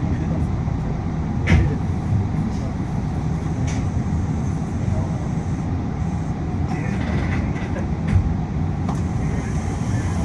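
Inside a Yui Rail monorail car running: a steady low rumble of the car on its track beam, with air-conditioning noise. Two short knocks stand out, one about a second and a half in and one about eight seconds in.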